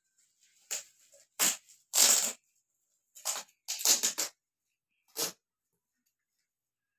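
Gift wrapping being rustled and torn open in a handful of short bursts, the loudest about two and four seconds in.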